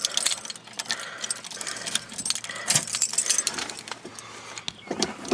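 A bunch of keys jangling and clicking against each other as the ignition key is put into a car's ignition switch.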